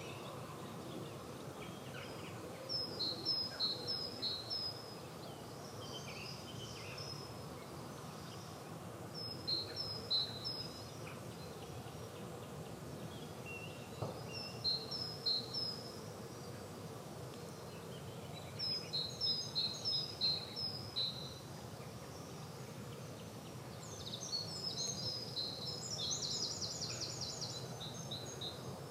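Songbirds singing in a spring garden. A short phrase of four or five high notes comes back every five seconds or so, and a longer, busier phrase sounds near the end, over a steady low background hum.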